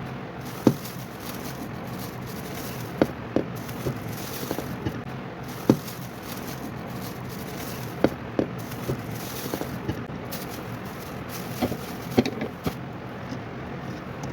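Handling noise from a sport water bottle: about a dozen irregular sharp clicks and knocks over a steady background hiss.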